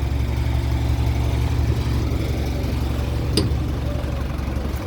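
Engine idling steadily with a low rumble, and a sharp click about three and a half seconds in.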